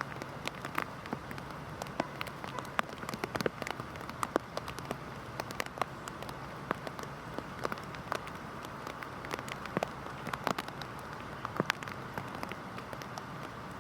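Heavy rain falling steadily, a constant hiss scattered with many sharp, irregular drop impacts.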